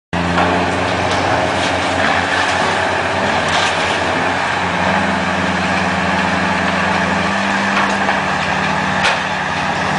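Heavy truck engine running steadily, its pitch stepping up about five seconds in and dropping back a couple of seconds later, with a few sharp knocks over it.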